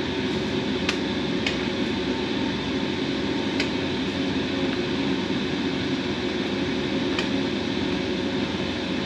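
Steady mechanical hum of the yacht's machinery running underway, with a few faint ticks over it.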